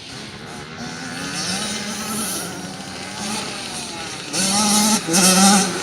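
Motocross bike engines running on the track, their pitch rising and falling as the throttle is opened and closed; one gets clearly louder from about four seconds in as it comes close.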